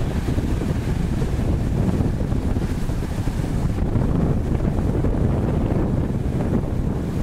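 Heavy wind buffeting the microphone on a moving jet ski, a steady low rumbling rush with the noise of water and spray mixed in.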